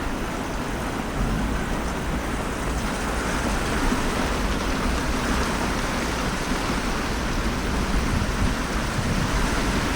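Heavy thunderstorm rain pouring down in a steady hiss, with no distinct thunderclap.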